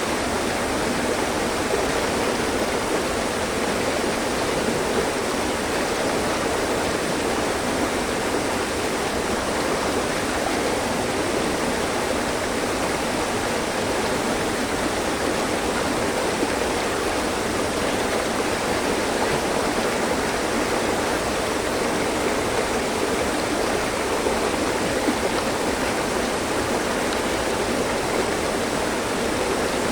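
Mountain stream: water running and splashing over rocks in a steady, even rush.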